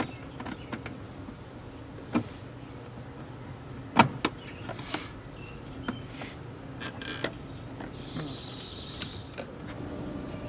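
A 2003 Land Rover Discovery 2 passenger-door power window running: a steady electric motor hum with several sharp clicks and knocks, the loudest about four seconds in. The regulator's broken plastic wheel has been replaced with a filed-down washer, and no odd noise is heard from it.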